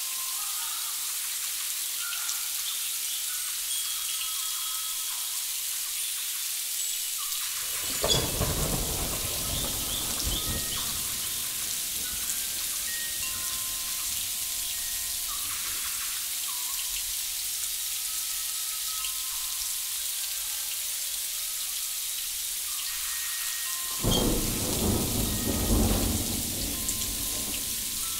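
A steady high hiss like rain, with faint scattered tones. A low, rolling rumble like thunder swells in about eight seconds in and again near the end.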